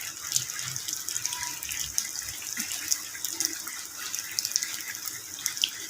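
Rain falling steadily, a continuous hiss with many sharp drop ticks.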